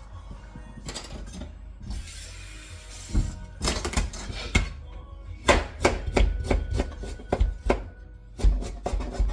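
Knife chopping on a cutting board: a run of sharp knocks, several a second, starting a little over three seconds in, over background music.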